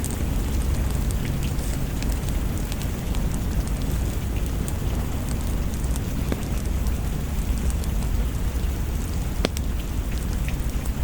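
Steady rain mixed with the scattered crackles and pops of a wood fire, over a steady low rumble; one crackle stands out, sharper, near the end.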